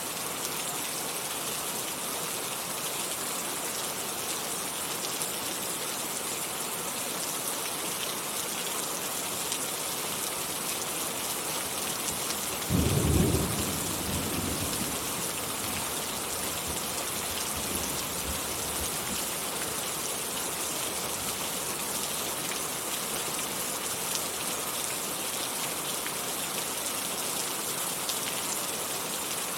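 Steady rain falling, an even hiss throughout. About halfway through, a single low rumble of thunder breaks in loudly for a second or two and then fades out over several seconds.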